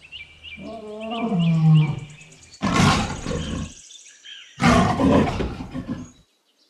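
Lioness roaring: first a lower, drawn-out moaning call, then two loud, rough roars of about a second each.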